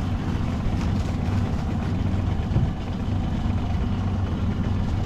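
Small boat's outboard motor running at a steady low speed, a constant low hum, with a brief knock about two and a half seconds in.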